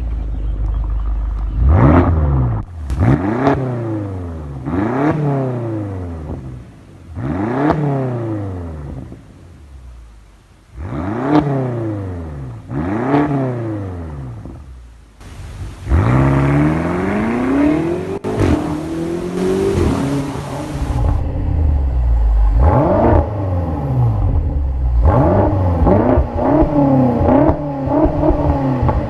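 A high-performance V8 engine revved in about seven sharp blips, each rising and falling back, then accelerating hard with its pitch climbing and dropping at each gear change.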